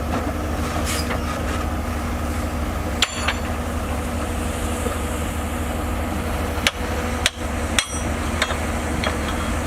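Bulldozer's diesel engine running steadily, with sharp metallic clanks: one about three seconds in, then several more about half a second apart near the end.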